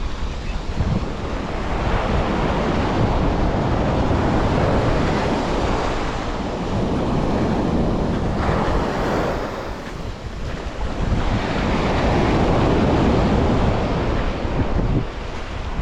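Sea waves washing onto a beach in surges, swelling over several seconds, easing about ten seconds in and building again, with wind rumbling on the microphone.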